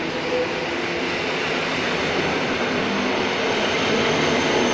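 A blue-and-yellow electric multiple unit commuter train running past close by. Its wheels on the rails make a steady rumble that grows slightly louder toward the end.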